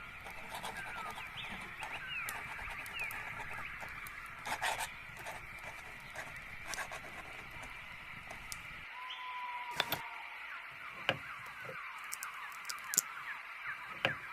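A chorus of small birds chirping, many short falling chirps over a steady high twittering, with scattered light clicks and taps. A low background hum drops away about two-thirds of the way through.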